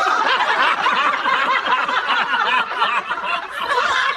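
Several people laughing together, chuckles and snickers overlapping without a break.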